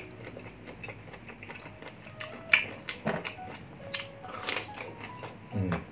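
Crisp unripe green mango being bitten and chewed close to the microphone, a few sharp crunches in the middle, over soft background music.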